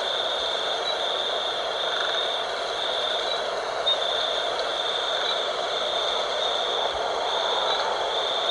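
Night wind, a steady rushing hiss, with a night insect trilling at a high pitch in pulses about once a second.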